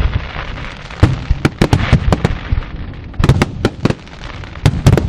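Fireworks going off: a hiss in the first second, then sharp bangs in quick irregular clusters, about a second in, around three seconds in, and again near the end.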